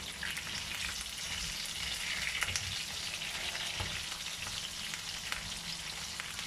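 Chicken pieces and curry leaves sizzling steadily in hot oil in a non-stick wok. A metal spatula stirs them, with a few light clicks against the pan.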